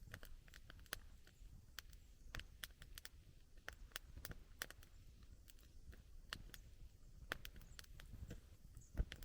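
Wood campfire crackling, with irregular sharp snaps and pops over a low steady rumble; one louder pop near the end.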